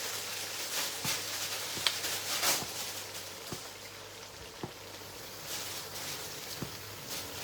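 Spinach being washed by hand in water: irregular splashing and dripping, with a few light knocks scattered through.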